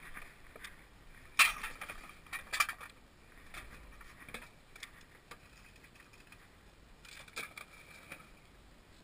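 Scattered knocks and rattles of objects being handled, with a busy cluster of clatter about one and a half to two and a half seconds in and another knock about three quarters of the way through.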